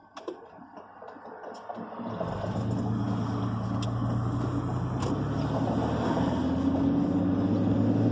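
Vehicle engine running as it drives, rising in level about two seconds in and then holding a steady hum.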